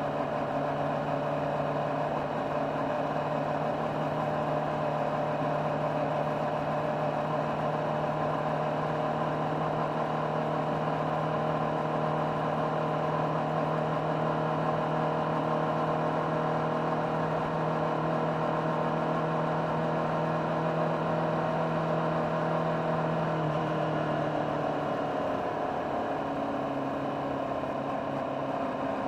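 Honda CBR600RR's inline-four engine through its stock exhaust, heard on board while riding: a steady engine note that slowly climbs, then drops in pitch about three-quarters of the way through as the revs fall.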